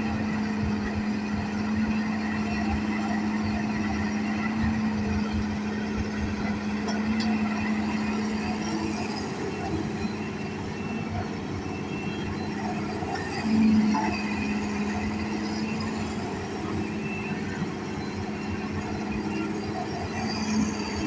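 Diesel engine of heavy construction machinery running steadily, with a brief rise in loudness about two-thirds of the way through.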